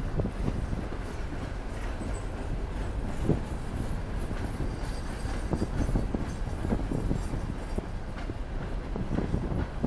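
Norfolk Southern train rolling past: a steady low rumble of wheels on rail, with irregular short knocks.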